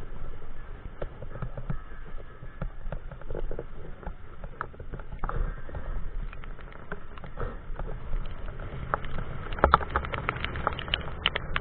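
Bicycle riding noise in pouring rain: a steady rumble with many sharp clicks and rattles, which grow denser and louder near the end.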